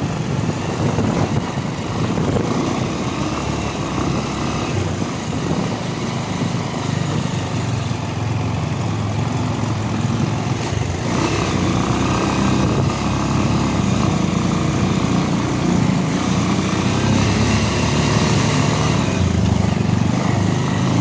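Motorcycle engine running while riding, a steady dense engine note with road and wind noise, growing somewhat louder about halfway through.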